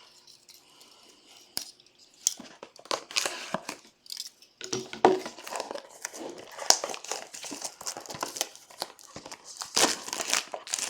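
Plastic shrink wrap on a trading-card hobby box crinkling and tearing as the box is unwrapped: a few scattered clicks and rustles at first, then dense, continuous crinkling from a little under halfway in.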